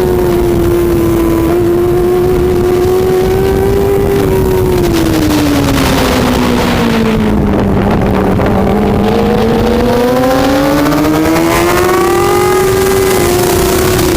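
Racing superbike engine running hard at high revs, its pitch holding, then falling over several seconds as it slows and climbing again as it accelerates.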